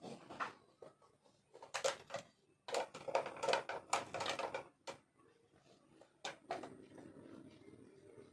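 Clicks and knocks of objects being handled, coming in irregular clusters, busiest in the middle.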